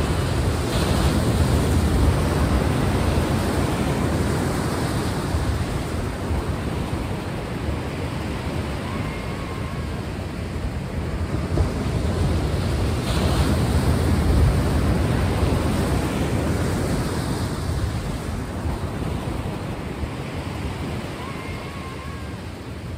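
Ocean surf: waves breaking and washing in as a steady rush that swells louder near the start and again just past the middle, then ebbs away. Two faint, brief chirps sound over it.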